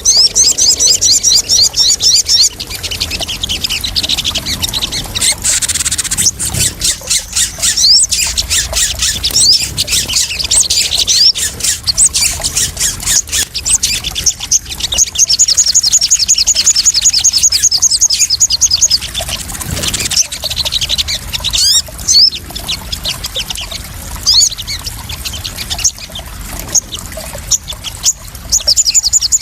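Sogon (crimson sunbird) calling in fast trills of high, thin chirps, several runs of them, over water splashing and trickling.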